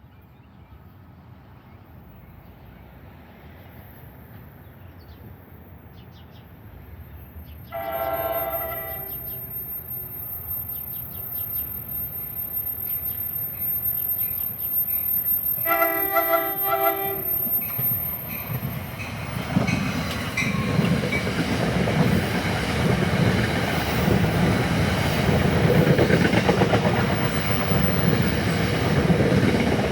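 Approaching train sounding its horn in two short chord blasts about eight seconds apart. After the second blast its rumble grows much louder as it pulls in and passes.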